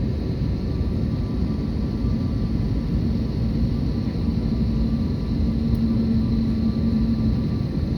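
Airbus A321neo jet engines running: a steady rumble with a steady hum that stands out through the middle and stops shortly before the end.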